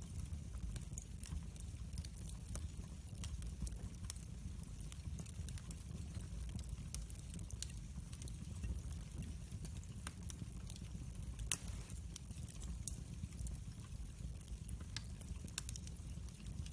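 Wood fire burning: a steady low rumble of flames with frequent small crackles and pops, one pop louder than the rest about two thirds of the way through.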